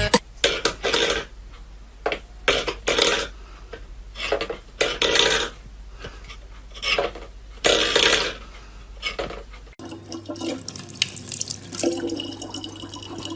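Water sounds: about a dozen irregular splashes for the first ten seconds, then, after a cut, water running steadily with a low hum behind it.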